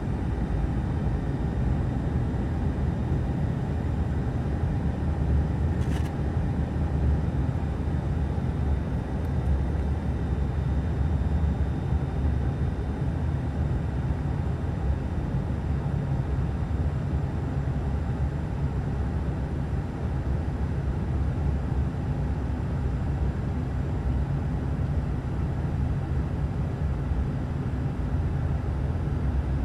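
Steady cabin drone of an ATR turboprop airliner descending for landing: a low propeller and engine hum under the hiss of airflow. A single short click about six seconds in.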